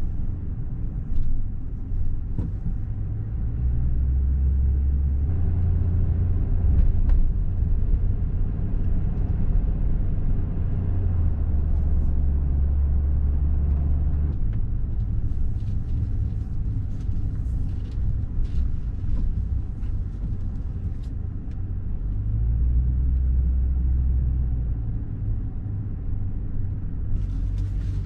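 Low, continuous rumble of a car on the road, its engine and road noise swelling and easing every few seconds.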